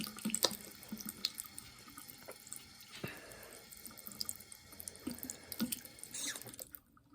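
Water running from a tap into a sink, a steady splashing rush with scattered drips, cut off suddenly near the end.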